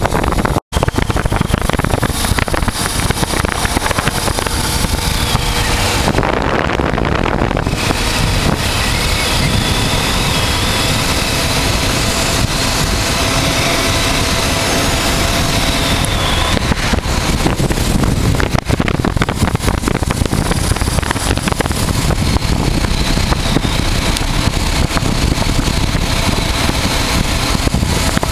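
Wind rushing over the microphone of a moving motorcycle, with the 1988 Honda Transalp's V-twin engine running steadily underneath. The sound cuts out for an instant just under a second in.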